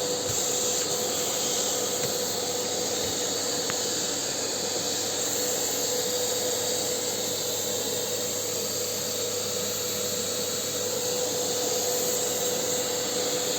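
Vacuum cleaner running steadily: an even rushing of air with a constant hum, with no change in pitch or level.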